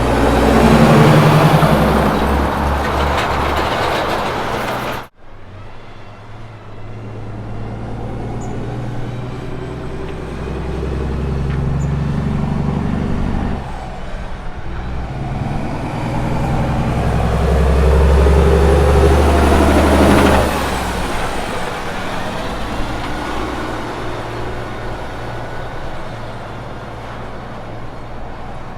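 Diesel engines of heavy road-train prime movers. The first truck passes loudly and stops abruptly about five seconds in. A second truck's engine then runs with a steady note, grows louder to a peak a little before two-thirds of the way through, and then fades as it moves away.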